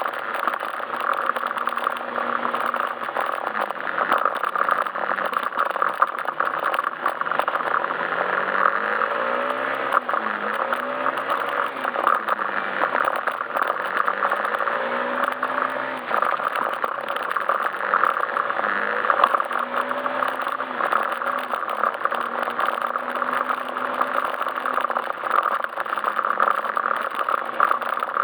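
Yamaha Majesty S scooter's single-cylinder engine running on the move, its pitch rising and falling repeatedly with the throttle, under steady wind and road noise with some rattling.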